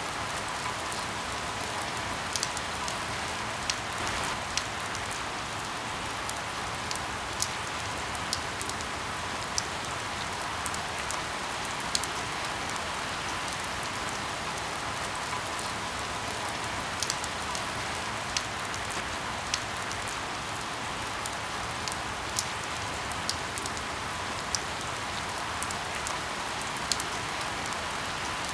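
Steady rain falling, with scattered sharp pops and crackles from burning firewood at irregular moments.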